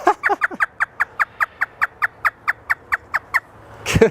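African grey parrot mimicking a hysterical laugh: a rapid string of short staccato 'ha' notes, about five a second, each dropping in pitch. It breaks off briefly and starts again near the end.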